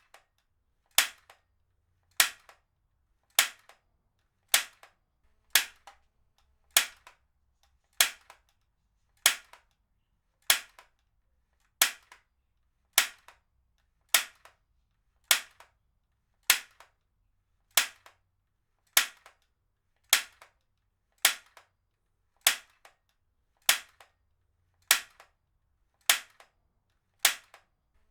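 Heavy-duty stapler firing staples one after another, a sharp snap about once a second, each followed by a faint second click.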